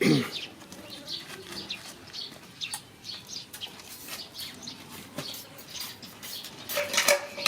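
Small birds chirping, short repeated chirps throughout, with a brief louder sound about seven seconds in.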